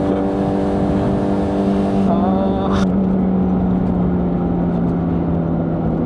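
Honda CBR600RR's inline-four engine running at a steady, slightly falling pitch through its stock exhaust while riding. A brief rising whine comes in about two seconds in.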